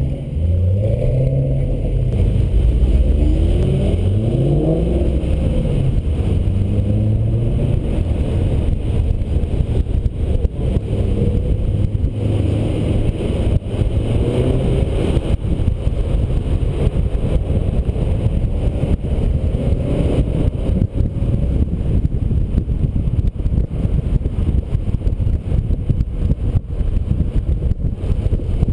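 Car engines accelerating, their pitch rising and dropping through several gear changes in the first few seconds and again a couple of times later, over steady wind and road noise on a roof-mounted camera.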